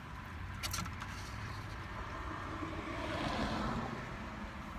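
Steady low rumble of a motor vehicle, with a vehicle passing by: its sound swells and its pitch falls, loudest about three seconds in, then fades. A brief sharp click comes just under a second in.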